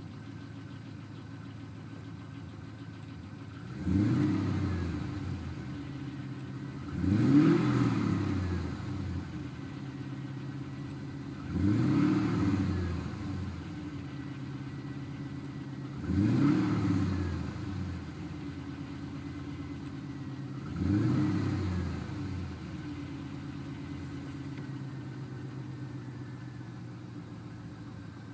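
GM LS1 V8 engine idling and blipped five times, every four to five seconds. Each time the revs rise sharply and fall back to idle.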